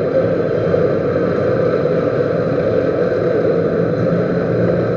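Metal lathe running with a steady mechanical hum, used to machine a servo motor shaft end to 10 mm diameter.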